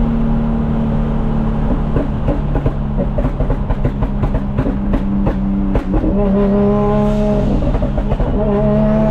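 Car engine running at steady revs with an even hum. From about two to six seconds in, a rapid run of sharp crackles and pops sounds over it, and after that the engine note grows stronger and holds.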